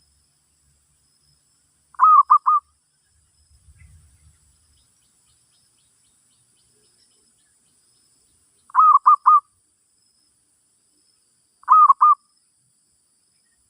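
Zebra dove cooing: three separate bouts of three or four quick staccato coos, with pauses of several seconds between them.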